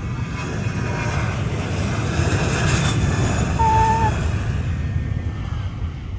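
Airplane passing overhead: a loud rumble that swells, peaks a little past halfway and then fades away.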